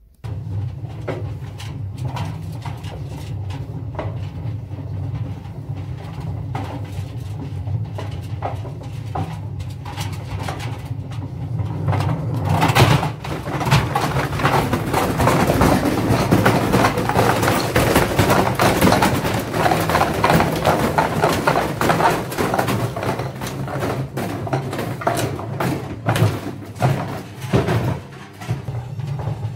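Indesit washing machine running with heavy bricks in its drum: a steady low motor and drum hum under constant banging and rattling from the loose bricks. It grows louder and more violent about halfway through, as the drum speeds up.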